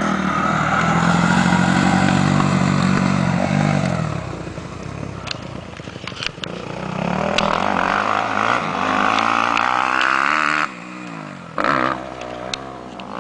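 Motocross motorcycle engine running, its pitch rising and falling as the throttle is blipped. The sound drops away abruptly about three-quarters of the way through, with a short burst a second later.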